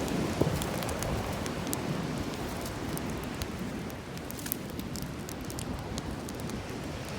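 Bonfire of dry wood crackling: scattered sharp pops and snaps over a steady low rushing noise.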